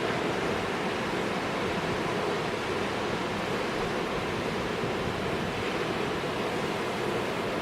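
Storm surf breaking against a rock jetty in high wind: a steady, even roar of crashing and churning water without a distinct single impact.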